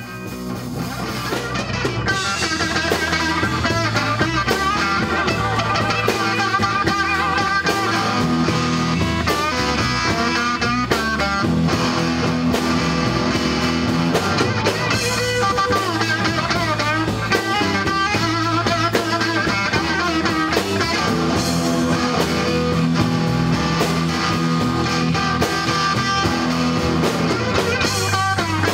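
Rock music with electric guitar over bass and drums, fading in at the start.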